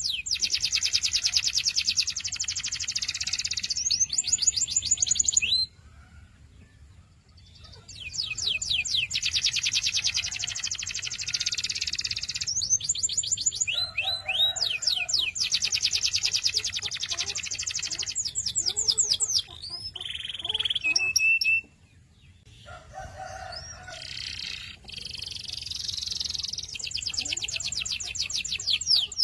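Canary singing: long, rapid trills and rolls in phrases several seconds long, broken twice by short pauses.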